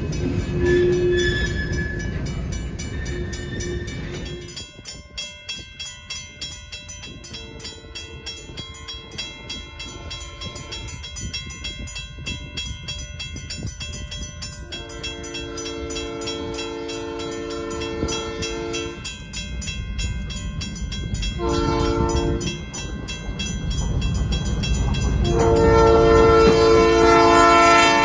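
Diesel locomotive's multi-chime air horn sounding the grade-crossing signal, long, long, short, long, with the last blast the loudest as the engine draws closer. Its engine and wheel rumble comes up under the final blast, and a fast regular clanging is heard through the middle.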